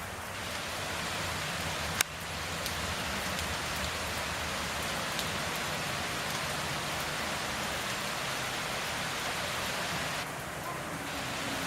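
Steady rain falling and pattering on surfaces, with a single sharp click about two seconds in.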